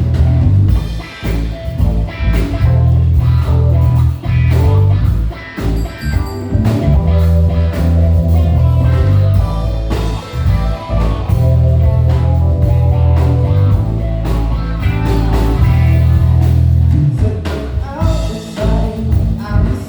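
Live band playing a blues-rock groove: guitar lines over electric bass, drums and keys, with a heavy, steady low end.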